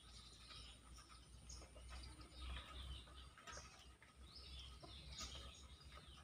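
Faint chirping of small birds: many short calls scattered throughout, over a low rumble.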